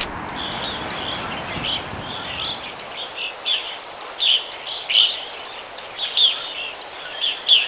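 Birds chirping: a run of short, high chirps, irregularly spaced and louder from about four seconds in. Under them a low, even background rumble fades out within the first two and a half seconds.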